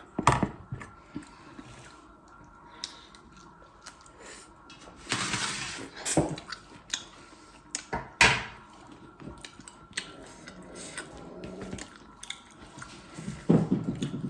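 Eating sounds: chewing with scattered clicks and knocks of dishes and utensils, and a brief louder noisy burst about five seconds in.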